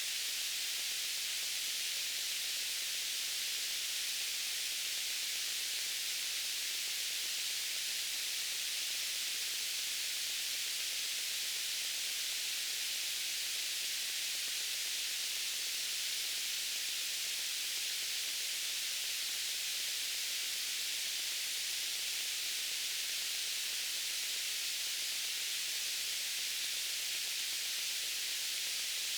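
White noise: a steady, even hiss, weighted toward the high frequencies with little bass.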